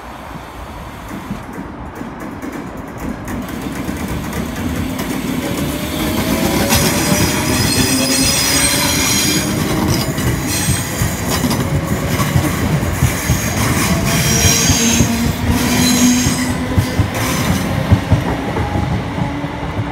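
Electric multiple unit passing close by on the rails. Its rumble builds over several seconds and then stays loud, with wheels squealing high above it and clicking over the rail joints. Several whines glide upward in pitch partway through.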